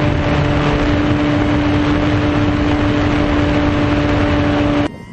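RC plane's electric motor and propeller running at a steady, unchanging pitch, loud and up close over rushing air noise, cutting off suddenly near the end.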